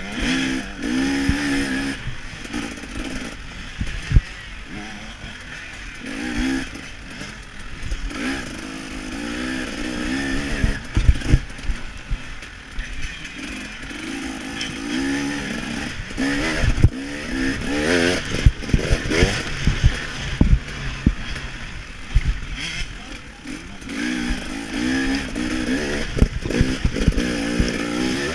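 KTM 300 XC-W two-stroke dirt bike engine revving up and down as it is ridden hard around a motocross track, heard close from the rider's chest-mounted camera. Sharp knocks come now and then, with the loudest clusters at about 4, 11, 16 to 19 and 26 seconds in.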